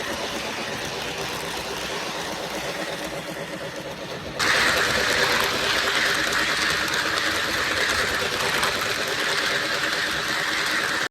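Lionel LionChief Plus O gauge 4-6-4 Hudson model steam locomotive and passenger cars running on track: a steady, finely rhythmic mechanical running sound that turns suddenly louder and brighter about four seconds in, then cuts off abruptly at the end.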